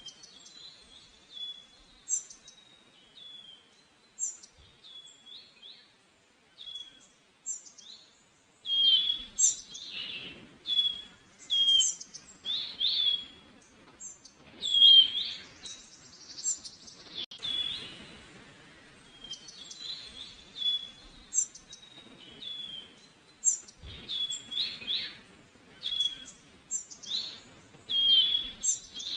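Small songbirds chirping: short, high calls repeated over and over, sparse at first and then coming thickly from about eight seconds in.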